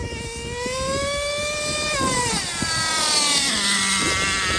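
Traxxas Revo 3.3 RC truck's small nitro engine revving high, easing off about two seconds in and dropping to a low idle, then revving up again near the end. Wind rumbles on the microphone underneath.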